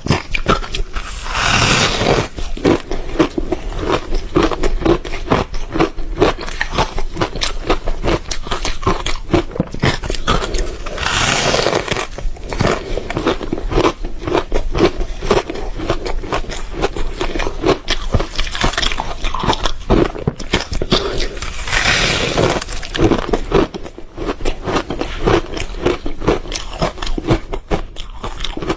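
Ice being bitten and chewed: a dense run of crunching, cracking clicks, with three louder crunches about ten seconds apart.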